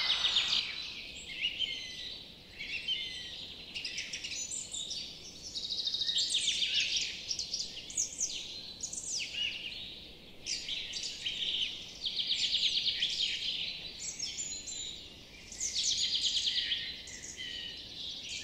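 Birds singing: a mix of high chirps, quick downward whistles and several fast trills that come and go every few seconds.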